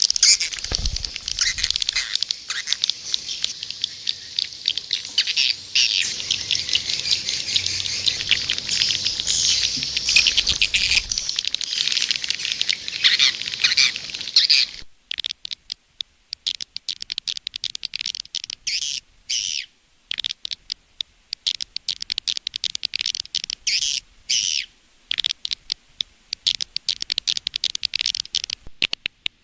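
Swiftlet lure sound: recorded swiftlet twittering and chirping of the kind played to draw swiftlets to nest houses. Dense chattering at first, then about halfway through it switches to a cleaner run of rapid chirps and clicks broken by short silences.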